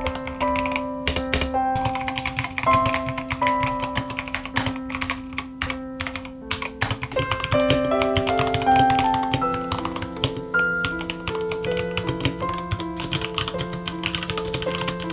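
Rapid typing on a mechanical keyboard, a quick irregular run of key clicks, over background music of stepping melodic notes.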